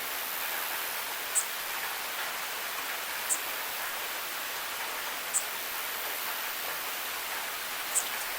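Steady rain, an even hiss, with a short high-pitched tick four times, about every two seconds.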